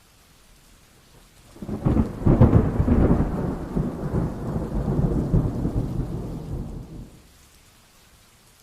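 A peal of thunder: a crackling clap about a second and a half in turns into a rumble that lasts about five seconds, then dies away. Steady light rain continues beneath it.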